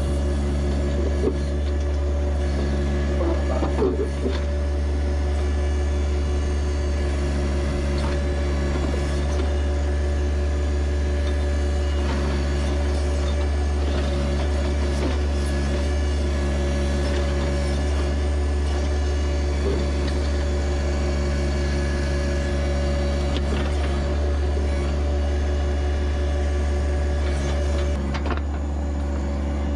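John Deere 1025R compact tractor's three-cylinder diesel engine running steadily at constant speed while the backhoe works, with a few short knocks.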